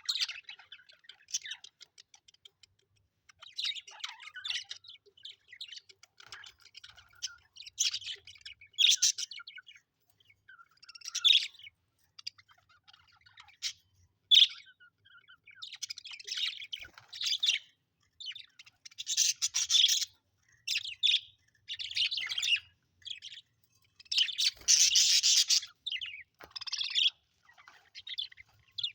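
Budgerigars chirping and warbling in irregular bursts with short pauses between them, the loudest stretches about two-thirds of the way through and near the end.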